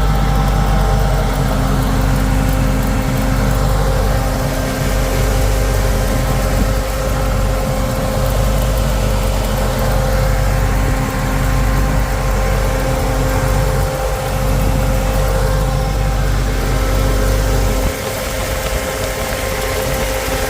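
1968 Pontiac Firebird's engine running steadily with a deep low rumble, which drops away suddenly near the end.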